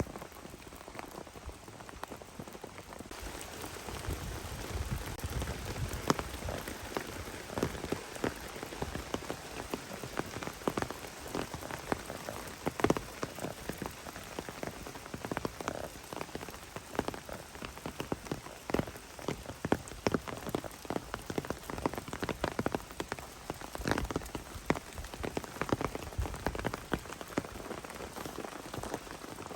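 Steady rain with many heavy individual drops striking a surface close by at irregular intervals; the hiss of the rain grows fuller about three seconds in.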